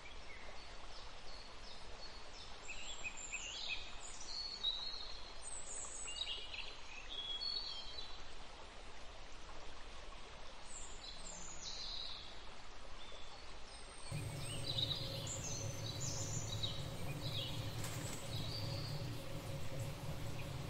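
Birds chirping in short, scattered calls over a faint steady hiss. About two-thirds of the way through, a low hum comes in underneath.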